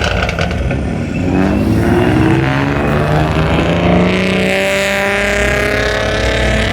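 Car engine accelerating hard, its pitch climbing for a few seconds and then holding steady.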